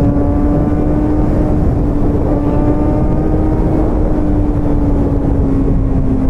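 Motorcycle engine running at a steady cruise, one even drone whose pitch eases slightly lower near the end, under a heavy low rush of wind and road noise.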